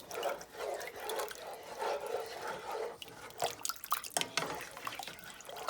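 Sweet and sour sauce being stirred in a pot as it thickens: a repeated wet sloshing of the liquid, with a few sharp clicks of the spoon against the pot past the middle.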